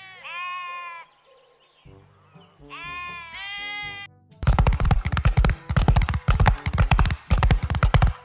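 Goats bleating twice, each call about a second long, falling in pitch and then holding, over quiet background music. From about four seconds in, a loud rapid run of irregular thuds: the hoofbeats of a herd of horses galloping.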